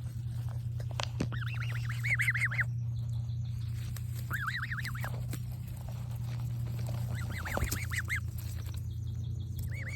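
Young goose calling in four short runs of rapid, high chirping notes, a few seconds apart.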